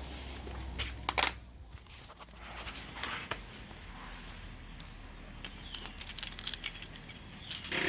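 Keys jangling with small metallic clicks and clinks of handling, most busy in the last few seconds; the motorcycle's engine is not running.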